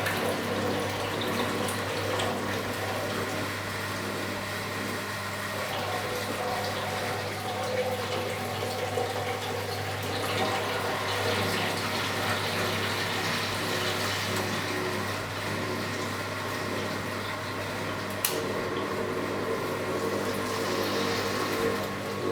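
Philco Bendix W84RX washing machine running, with water rushing steadily through it over a steady low hum. A single click comes near the end.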